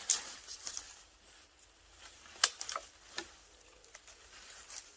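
Dry dead wood and twigs crackling and snapping in a few scattered sharp cracks, the loudest about two and a half seconds in.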